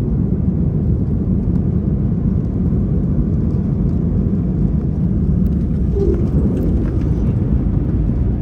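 Steady low rumble inside a jet airliner's passenger cabin while the aircraft moves on the ground.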